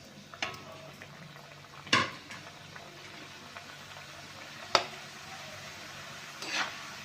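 Dough pieces of a spiced rice- and wheat-flour snack deep-frying in hot oil in a kadai: a steady sizzle that grows slowly as more pieces go in. Four sharp clinks of a utensil against the pan punctuate it.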